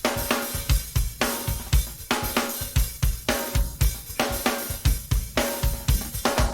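Drum kit playing a busy, steady groove on its own, without the band: kick drum, snare and hi-hat, with cymbals.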